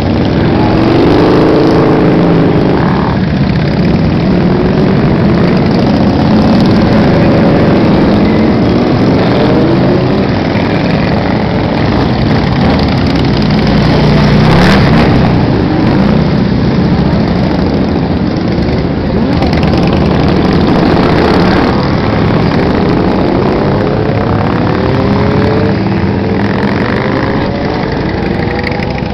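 Many motorcycles riding past in a steady stream, engines running loud, with engines repeatedly revving up in rising sweeps.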